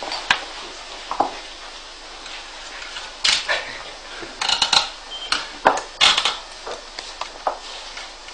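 Irregular light metallic clicks and clinks, some in quick clusters, of parts being handled on the magnet motor as it is being started; no steady running motor sound.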